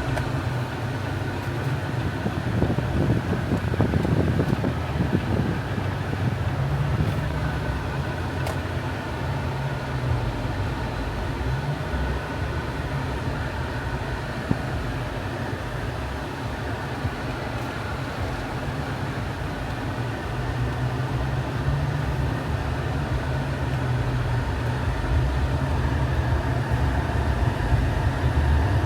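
2018 Jeep Compass driving, heard from inside the cabin: a steady low rumble of engine and tyre noise that swells and eases a little.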